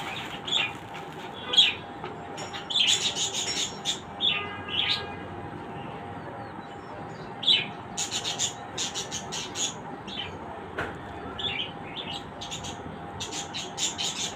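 Pet birds chirping in quick clusters of short high calls, over a steady faint hum.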